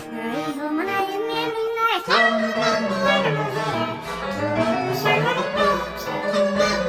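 Children's song: a child-like singing voice over backing music, with a sharp swoop in pitch about two seconds in.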